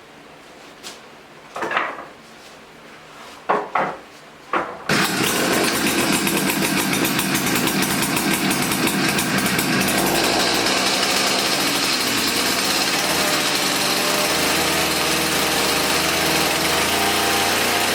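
Gas-powered ice auger engine being pull-started: a few short pulls, then it catches about five seconds in and runs steadily.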